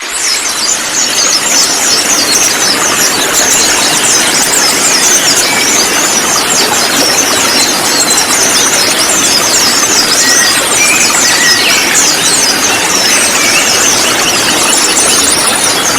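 A dense flock of konin birds chirping and twittering all at once, many quick high calls overlapping without pause over a steady noisy hiss. The many birds calling together are meant as a lure to set another konin singing.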